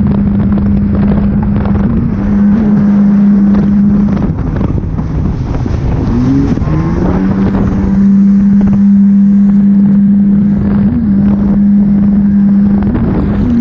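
Jet ski engine running at a steady high note, easing off about halfway through, then climbing back up. A rush of wind and water noise runs under it.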